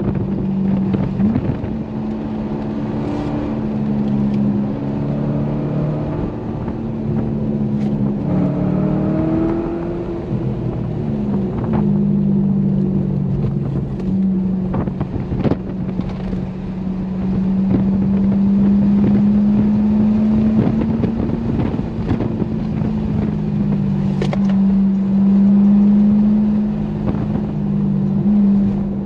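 Corvette C6 Grand Sport's 6.2-litre V8 running while driving, heard from inside the trunk. The engine drone is steady, its pitch swinging up and back down about a third of the way in, with occasional sharp clicks.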